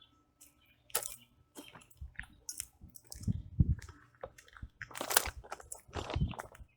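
Footsteps crunching through dry long grass, irregular crunches with a soft thud under some of the steps.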